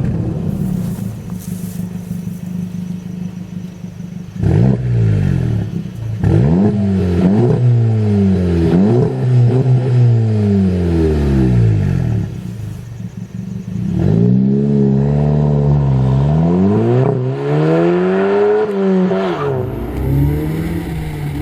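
Exhaust note of a Volkswagen Mk7 2.0-litre turbo four-cylinder through a Corsa 3.0-inch cat-back system. It idles, is revved up in several quick successive blips that fall away, settles back, then takes one longer rev that climbs and falls before returning to idle.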